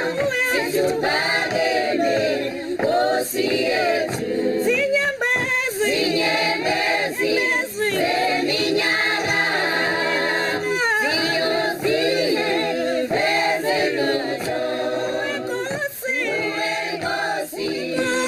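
A choir singing, several voices in continuous, sustained, wavering lines.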